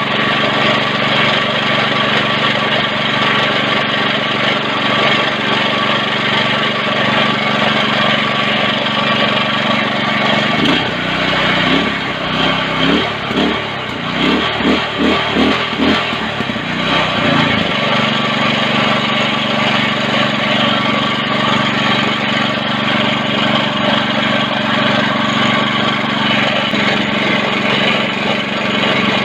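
Go-kart's small petrol engine running steadily. For about seven seconds in the middle its note breaks into uneven pulses, then it settles back to a steady run.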